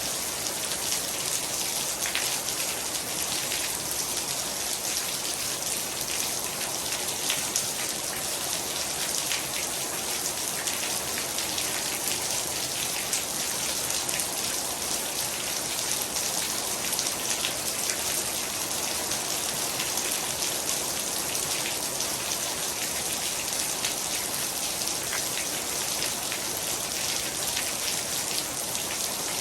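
Heavy rain falling steadily, a constant hiss made up of countless drops pattering on surfaces.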